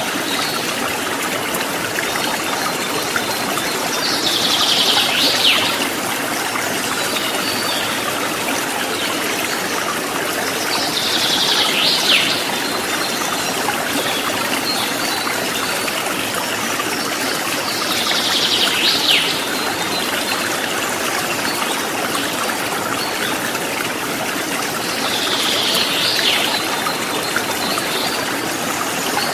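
Stream water trickling steadily. A high bird call rises and cuts off sharply four times, about seven seconds apart.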